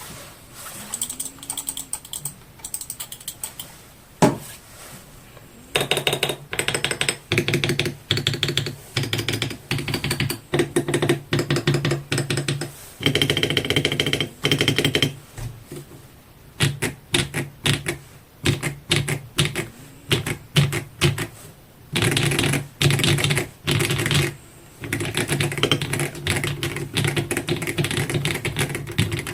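Dareu A98 mechanical keyboard, sound-modded for a clacky 'mahjong tile' keystroke sound, being typed on in bursts of fast keystrokes with short pauses between. One single louder key knock about four seconds in.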